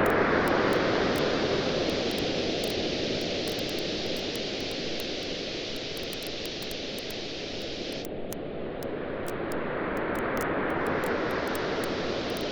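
Waves washing onto a beach, loudest at the start, easing through the middle and building again near the end. Under them a wood fire crackles with frequent small sharp pops.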